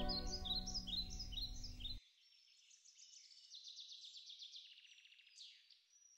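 Small birds chirping and trilling faintly, with a quick trill a little after the middle. Soft music fades under them and stops abruptly about two seconds in.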